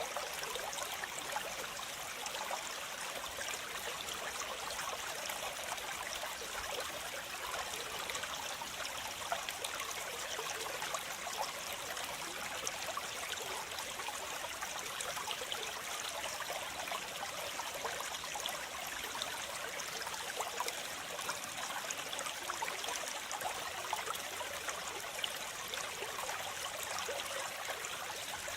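Waterfall: a steady rush of falling water, mostly high and hissy with little low rumble, with fine splashing and trickling throughout.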